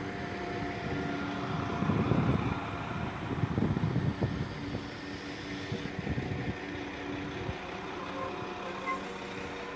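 Class 172 diesel multiple unit rolling slowly along the platform, its underfloor diesel engines humming steadily. Wheel and rail rumble swells louder about two and about four seconds in.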